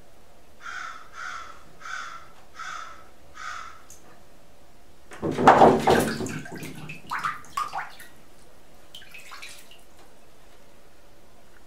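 Red-throated loon giving five harsh, caw-like calls in a row, then splashing hard in a tub of water about halfway through, with a few smaller splashes after.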